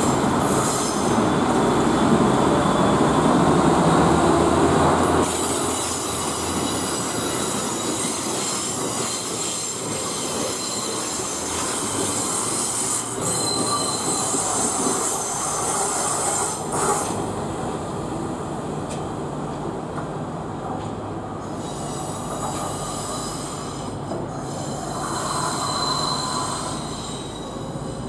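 Class 142 Pacer diesel railbus running loudly, then its wheels squealing as it crawls past on the curved station track. A shorter high squeal comes back near the end.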